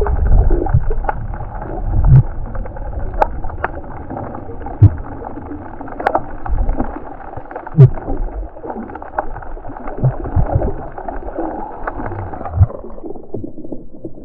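Water sloshing and gurgling against a kayak, heavily muffled, with scattered sharp knocks; it turns duller still near the end.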